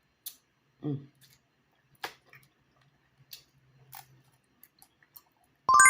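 Blue crab shell cracking and snapping as it is broken apart by hand: a handful of sharp, separate clicks. Near the end comes a loud ringing clink, something hard struck against metal or glass, that dies away slowly and is the loudest sound.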